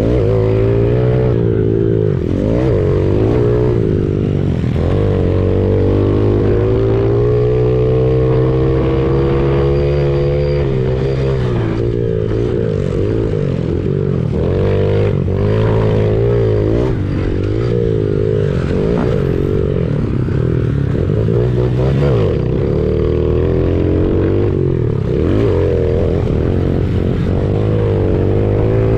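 Honda CRF70's small single-cylinder four-stroke engine under race throttle, its pitch repeatedly rising and dropping back every second or two as it revs and is shifted.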